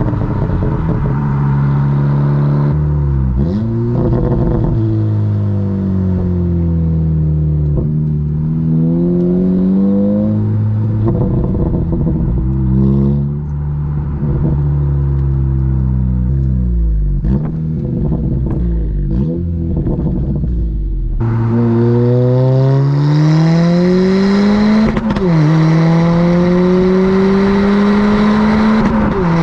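A 2022 Honda Civic Si's 1.5-litre turbocharged four-cylinder, breathing through an aftermarket downpipe and the stock exhaust, accelerating through the gears. Its pitch climbs and drops sharply at each upshift, several times, and between pulls it falls away more slowly as the car slows.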